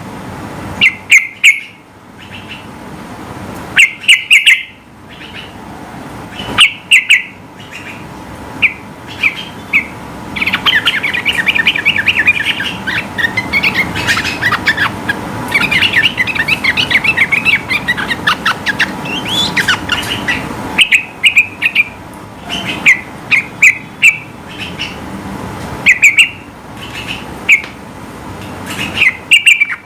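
Sooty-headed bulbul (trucukan) singing loudly: short whistled notes come in quick clusters, and in the middle a fast, continuous chattering run lasts about ten seconds.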